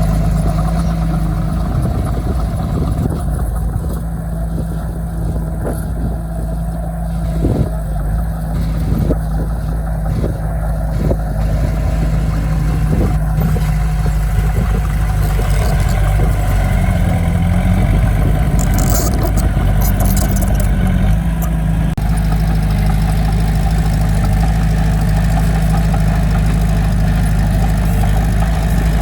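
Heavy diesel earthmoving equipment running steadily with a low engine drone. A few sharp knocks come about a third of the way in, and short high-pitched hissing bursts about two-thirds through.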